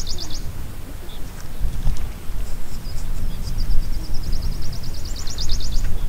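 A small bird's high, fast trilled song. One phrase ends just after the start, and a second phrase of steady notes builds into rapid rising strokes from about three and a half seconds in until near the end. A steady low rumbling noise runs underneath.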